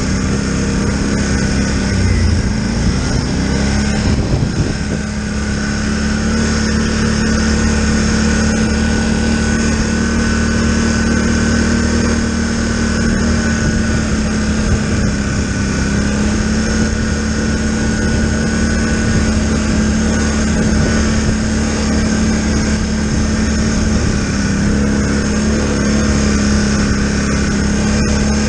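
Polaris Sportsman 1000 ATV engine running at a steady speed while riding the trail, holding an even pitch with a brief waver in engine speed about two to four seconds in.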